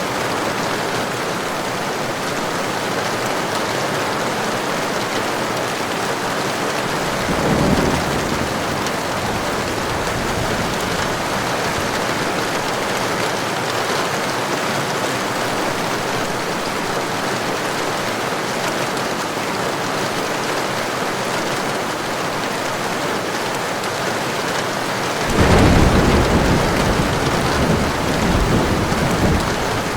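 Heavy rain falling steadily with thunder: a short low rumble about a quarter of the way in, then a longer, louder roll of thunder near the end.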